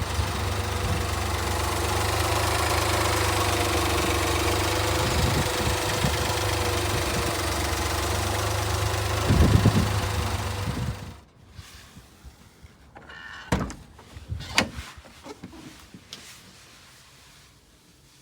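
1996 Honda Acty kei truck's three-cylinder engine idling steadily, with a brief louder burst about nine and a half seconds in. The engine cuts off suddenly about eleven seconds in, leaving a few faint clicks and knocks.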